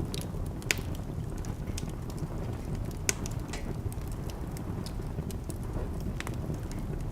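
Wood fire burning in a fireplace: a steady low rumble with scattered crackles and pops, the sharpest about a second in and again about three seconds in.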